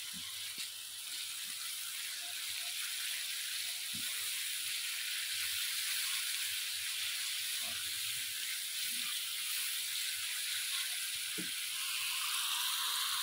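Onion-tomato masala frying in oil in a kadhai: a steady sizzle, with a few faint knocks from the wooden spatula stirring it against the pan.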